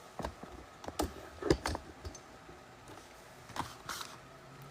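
Scattered light clicks and taps from trading card packs and cards being handled as the packs are opened, about six irregularly spaced.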